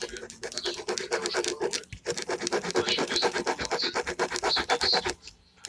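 Gel pen scratching on paper in quick, repeated strokes, as when filling in a drawing. There is a brief break about two seconds in and a short pause near the end.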